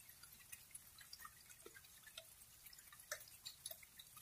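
Rain dripping and pattering: faint, irregular drops, several a second, over a soft hiss.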